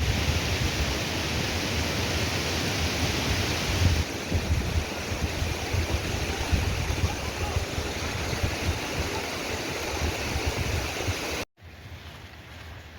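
Loud, steady rush of water, with a heavy low rumble and no clear strokes or pattern. It cuts off suddenly about eleven and a half seconds in, giving way to a much quieter background.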